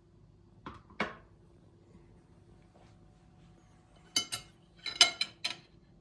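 Dishes and cutlery being handled: two knocks about a second in, then a quick run of ringing clinks of crockery or metal near the end.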